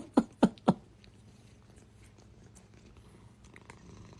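A cat making a quick run of short sounds, about four a second, that stops within the first second, followed by a faint low hum.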